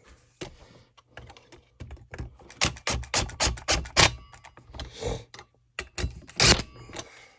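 Irregular clicks and knocks of small parts and tools being handled, with a denser run of clicks two to four seconds in and the loudest knock about six and a half seconds in.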